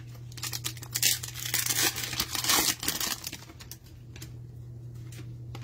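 Trading cards and their plastic wrapping being handled, with crinkling and rustling for about three seconds that then dies down, over a steady low electrical hum.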